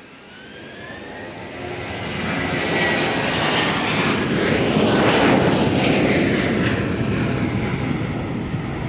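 Fixed-wing aircraft passing close by, its engine noise building to a peak about five seconds in and then slowly fading.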